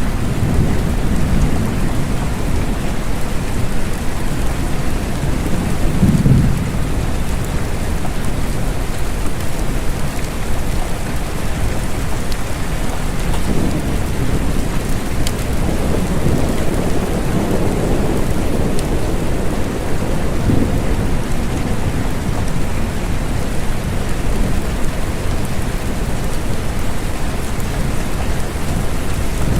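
Steady rain with low rolling rumbles of distant thunder, one about six seconds in and a longer one in the middle.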